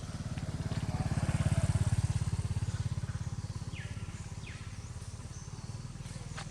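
A small motor-vehicle engine running with a steady low pulse. It grows louder to a peak about a second and a half in, then fades, as a vehicle passing by.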